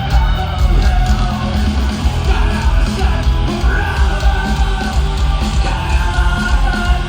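Loud live heavy rock music: a band playing with yelled vocals over a booming, pulsing low end.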